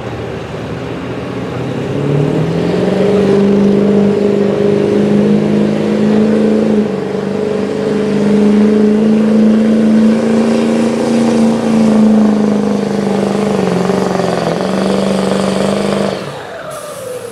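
Diesel pickup truck engine under full throttle pulling a weight-transfer sled. The engine note climbs about two seconds in, holds steady at high revs with a slight dip late on, then drops off near the end as the run finishes.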